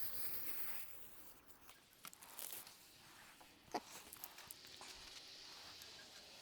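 Tape being pulled off the roll and laid along a car hood: a tearing hiss that fades out in the first second, then quiet handling with a few faint ticks and one sharper click a little past the middle.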